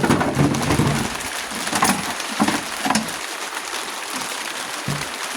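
Steady hiss of heavy rain on the building, with a few sharp knocks and clatters of parts being handled.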